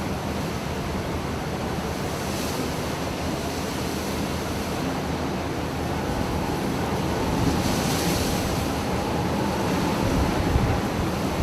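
Storm sea and wind at sea: a steady rush of waves and wind buffeting the microphone, swelling somewhat in the second half.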